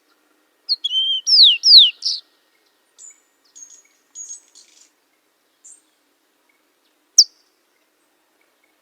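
A songbird singing: a short phrase of loud, clear whistled notes, two of them sweeping steeply downward, about a second in, followed by scattered faint high chirps and one sharp single chirp near the end.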